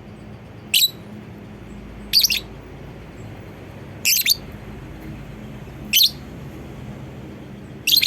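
Lovebird giving short, shrill calls, five of them about two seconds apart, some of them doubled, over a steady low background hum.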